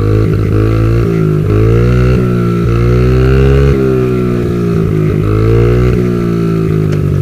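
Motorcycle engine running loud, its pitch repeatedly dipping and climbing back as the revs rise and fall.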